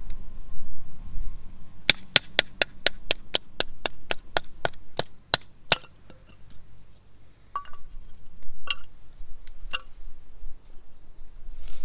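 A quick, even run of sharp chopping taps, about four a second for some four seconds, then a few scattered taps.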